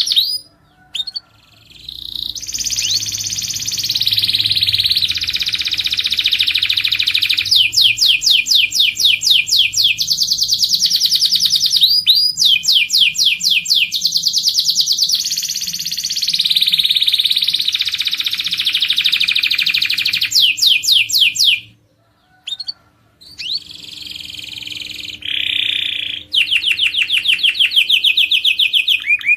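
Domestic canary singing: long series of fast, rapidly repeated trills and rolling phrases, broken by short pauses about a second in and again about two-thirds of the way through.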